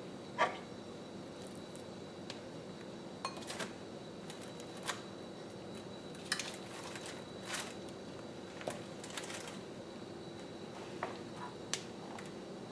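Scattered light clicks and clatters of utensils and dishes being handled while a sandwich is put together, about ten in all, the sharpest about half a second in, over a low steady hum.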